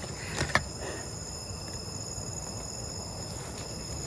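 Steady chorus of night insects, a constant high shrill over a low even hiss, with a few faint clicks about half a second in.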